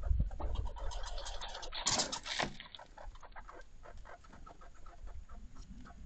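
Birds at a feeding spot: scattered small clicks and rustling, with a louder rustling burst about two seconds in.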